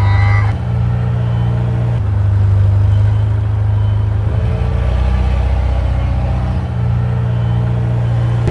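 Tractor engine running steadily at low speed, its pitch shifting slightly a few times.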